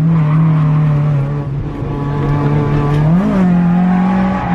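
Toyota AE86's BEAMS 3S-GE four-cylinder engine held at high revs at a steady pitch during a drift run, with one quick rise and fall in pitch a little over three seconds in.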